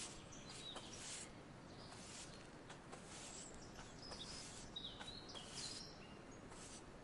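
Faint outdoor nature ambience: a steady soft hiss with short, high bird chirps scattered through it, several coming close together about four to six seconds in.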